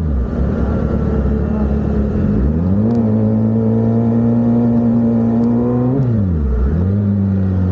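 Kawasaki ZX-6R's inline-four engine under way: the revs drop as the throttle closes, then climb and hold steady, drop again about six seconds in and rise once more near the end. It picks up with no delay, its spark plugs freshly replaced.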